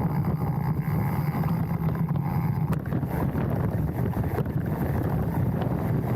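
Mountain bike riding down a dirt trail, heard from a handlebar-mounted camera: steady wind buffeting the microphone over the rumble of the tyres, with scattered small rattles and knocks from the bike.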